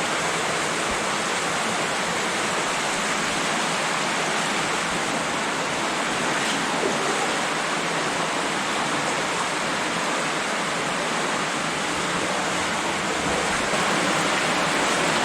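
Creek water rushing steadily through a tunnel, an even, unbroken hiss of flowing water.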